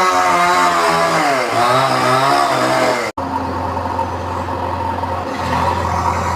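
A chainsaw engine revving, its pitch rising and falling as it cuts. About three seconds in it cuts off abruptly and a steady, low-pitched engine drone takes over, the JCB machine running.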